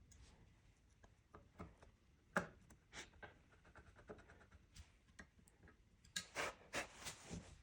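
Faint, scattered light clicks and taps. There is one sharper click about two seconds in and a quick run of clicks near the end.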